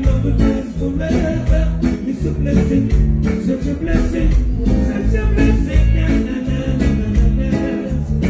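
Live reggae band playing: a heavy bass line under a steady drum beat, with no words sung.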